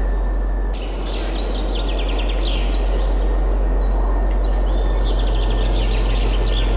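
Steady wind noise with a deep low rumble, and small songbirds chirping and trilling quickly over it; the bird calls start up a little under a second in.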